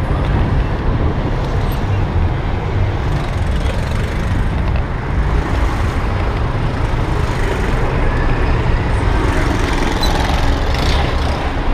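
Steady wind noise on the microphone of an electric bicycle moving along a road, with road traffic noise around it.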